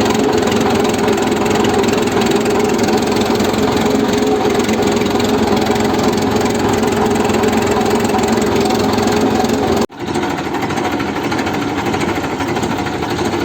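Hindustan tractor's diesel engine running steadily while hauling a loaded sugarcane trolley. About ten seconds in, the sound cuts out for an instant, then carries on a little quieter and thinner.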